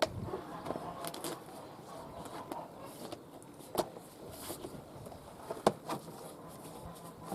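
A few sharp clicks and knocks from mower parts being handled, the loudest a little under six seconds in.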